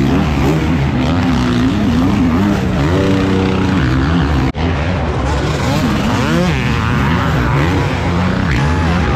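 Several four-stroke 450cc motocross race bikes revving hard and shifting, their engine notes rising and falling over one another, with a brief break about four and a half seconds in.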